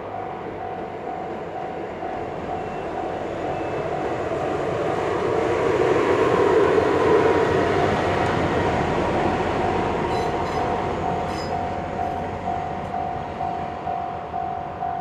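A train passing a level crossing, its rumble building to a peak about six to seven seconds in and then easing, with a few sharp clicks near the end. Over it, the crossing's warning bell rings in a steady pulse.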